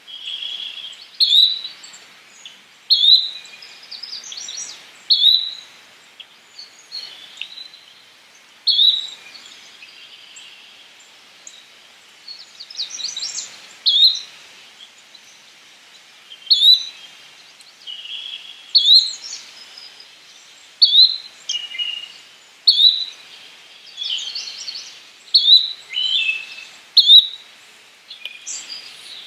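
Yellow-bellied flycatcher calling: a short, sharp note repeated every couple of seconds. Other birds sing more faintly in the background.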